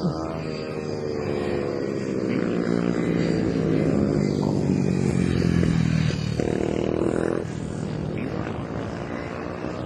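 110cc mini racing motorcycles revving as they run round the track, the engine pitch sweeping up and down as the bikes accelerate, shift and pass. Loudest in the middle, easing off about two thirds of the way through.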